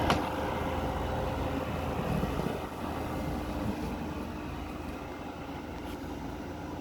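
Midea 5,000 BTU window air conditioner running with a steady whooshing hum; a sharp click right at the start, after which its noise drops and keeps slowly fading.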